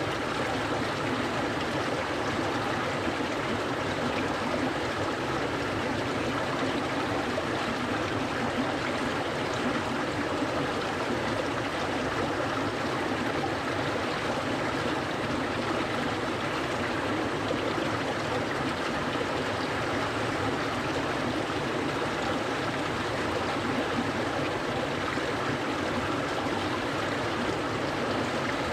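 Clear, cold mountain stream flowing steadily over rocks, a continuous rushing and burbling of water.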